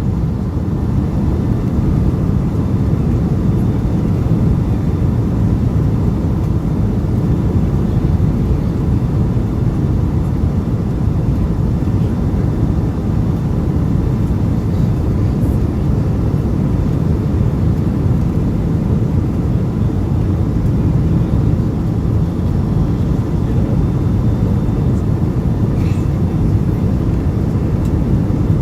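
Steady low rumble of a Boeing 757 heard from inside the passenger cabin: engine and airflow noise, unchanging throughout.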